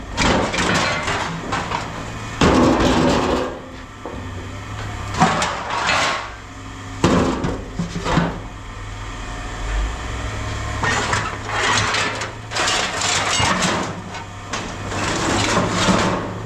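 Pieces of scrap metal clanking and banging at irregular intervals as they are handled and tossed during sorting, over a steady low hum.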